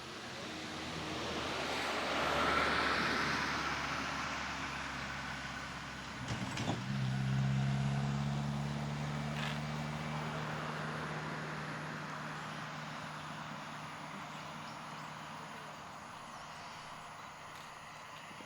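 A motor vehicle passing on the road, its tyre and engine noise swelling to a peak about two and a half seconds in and dying away. A knock about six seconds in is followed by a steady low engine hum that slowly fades away.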